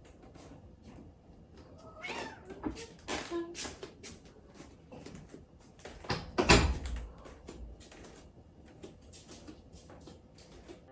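Young Exotic Shorthair cat meowing and crying repeatedly, among scattered short taps and knocks, with the loudest burst about six and a half seconds in. She is crying to get to her owner.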